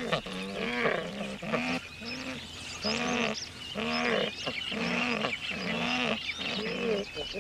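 Secretary birds calling at the nest during courtship: a steady series of short, deep croaking calls, each rising and falling in pitch, about two a second.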